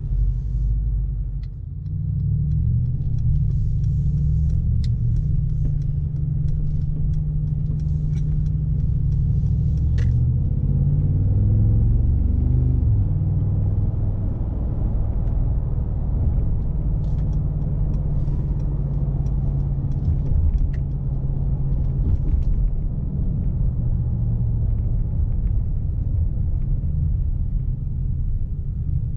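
Mercedes-AMG G63's 4.0-litre twin-turbocharged V8 and road noise while driving: a steady low rumble that swells a little about twelve seconds in, with a few faint scattered clicks.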